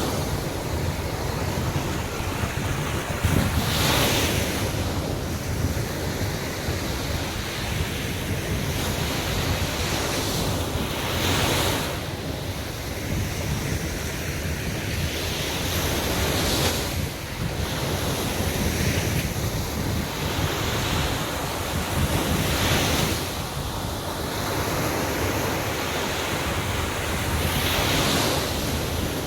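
Sea waves breaking on a beach, a surge of surf about every five to six seconds over a constant wash, with wind buffeting the microphone.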